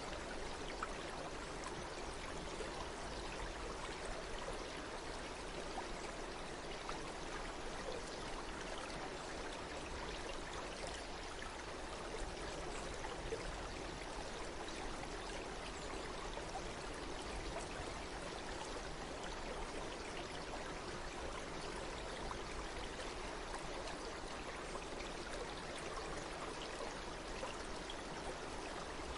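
Water of a stream flowing steadily, an even rush of small splashes and trickles.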